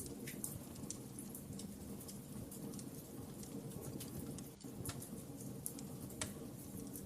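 Wood fire crackling in a fireplace: irregular sharp pops and ticks, several a second, over a low steady rumble of the burning fire.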